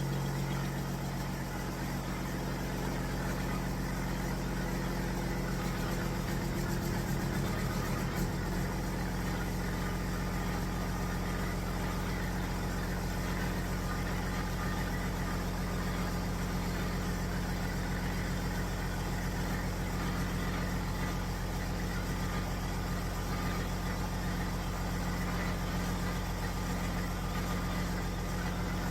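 Detroit Diesel Series 60 12.7-litre six-cylinder diesel in a Peterbilt 379 idling just after starting; its note changes about eight seconds in and then settles into a steady idle.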